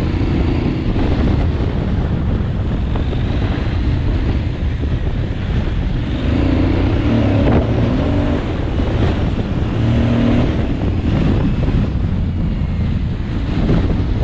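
Aprilia Tuareg 660's parallel-twin engine running under way, with heavy wind buffeting the microphone. The engine note rises briefly about six seconds in and again about ten seconds in.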